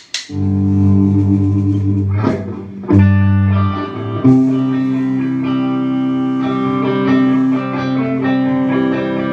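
Electric guitar and bass playing loud held chords, re-struck a few times with changes of chord.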